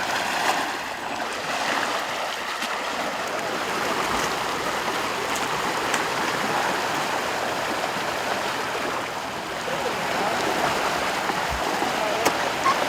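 Steady rush of moving water, with a few brief sharp sounds over it.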